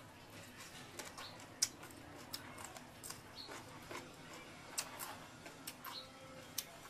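Close-up eating sounds: chewing on a raw shrimp and long-bean salad, with irregular sharp crunches and wet mouth clicks several times a second.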